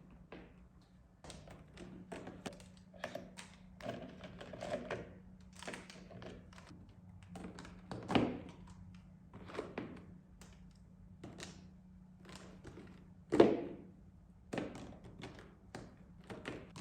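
Objects being handled and set down: irregular taps, clicks and knocks, with one louder knock about 13 seconds in, over a steady low hum.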